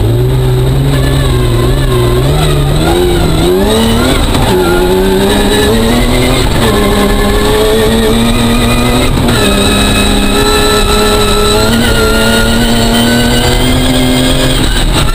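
Rally-prepared Ford Focus engine heard from inside the stripped cabin, accelerating hard. Its revs climb, then drop at gear changes about four and nine seconds in, before climbing again, over constant tyre and road noise.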